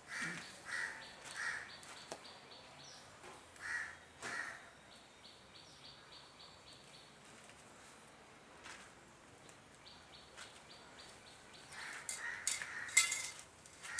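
Crow cawing: three caws at the start, two more about four seconds in, and another run near the end. Sharp clicks near the end, the loudest about a second before the end.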